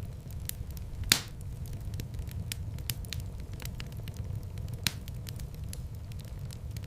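Wood fire in a fireplace crackling, with many small quick pops over a steady low rumble of the flames. There is one loud crack about a second in and another sharper pop near five seconds.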